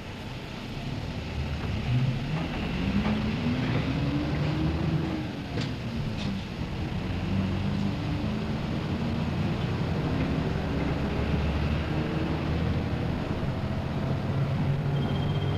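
Front of a P-MP118N city bus under way, heard from inside: the engine climbs in pitch as the bus accelerates, drops back at a gear change, then climbs again over steady road and body rumble. A short high steady beep sounds near the end.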